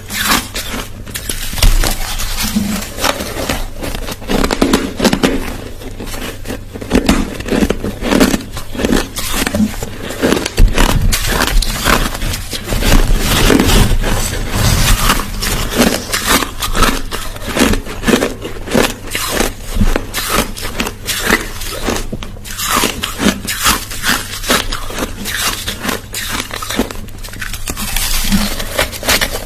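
Close-up crunching of crushed ice being bitten and chewed, a dense run of sharp cracks and grinding crunches without a break.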